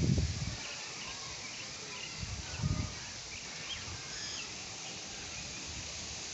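Outdoor wind blowing steadily, with gusts rumbling on the microphone right at the start and again nearly three seconds in. Faint, high, short chirping runs through it.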